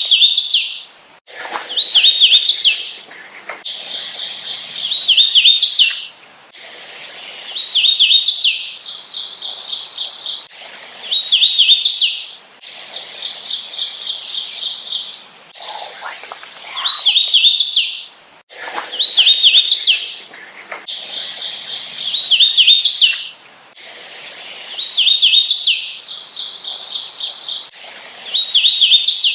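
Hooded warbler singing, repeating its loud, clear whistled song of slurred notes with an emphatic rising ending about every three seconds. Between songs there are quieter runs of rapid, evenly repeated notes.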